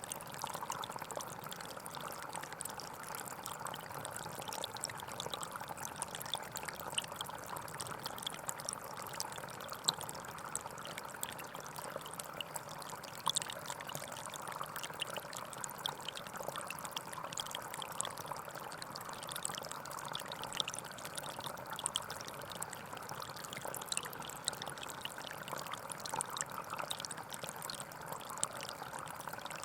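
Small forest stream flowing and trickling steadily, with many small splashing crackles over an even rush of water.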